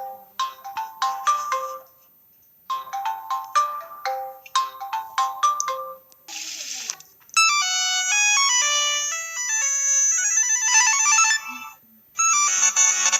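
Samsung Galaxy phone ringtones played one after another. A short plinking melody plays twice with a gap between. A brief hiss comes about six seconds in, then a different, busier electronic melody, and after a short pause near the end another tone begins.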